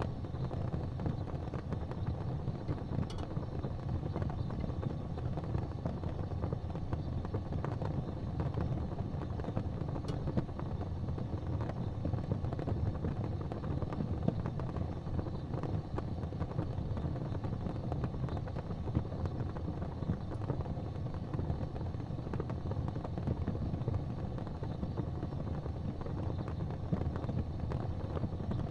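Wood fire burning in a fireplace: a steady low rumble of the flames with a few faint crackles.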